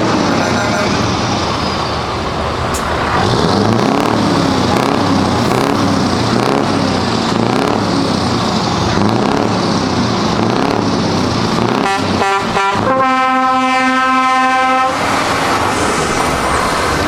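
Truck engines running with the pitch rising and falling over and over, then a truck horn gives three short toots and one long blast of about two seconds.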